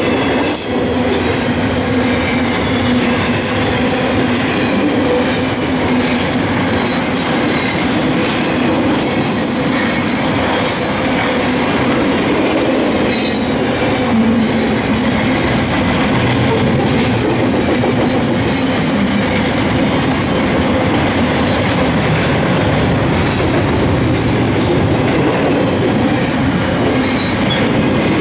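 Loaded double-stack container well cars of a freight train rolling past close by: a loud, steady rumble and clatter of steel wheels on rail.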